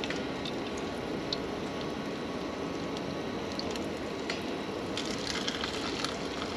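Panko-crumbed chicken thighs shallow-frying in oil in a pan: a steady sizzle with small scattered pops and crackles.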